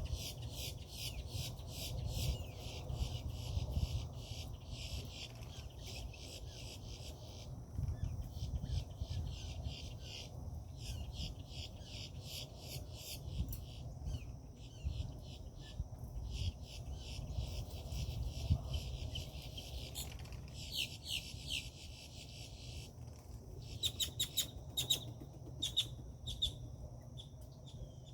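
Insects chirring in fast pulsing bouts several seconds long, broken by short pauses, with a few sharp bird calls near the end.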